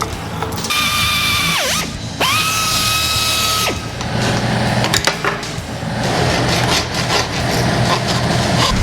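Power drill running in two bursts of about a second or so each, the whine falling in pitch as the motor spins down after each trigger release.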